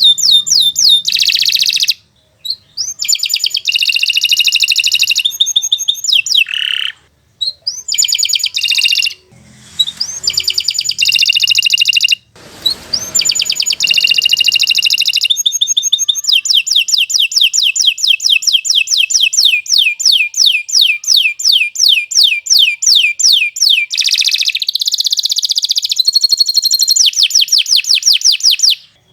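Domestic canary singing long, rapid trilled phrases, one rolling trill after another with only a few short breaks: the sustained, nonstop song that breeders play as a model for young canaries to learn from.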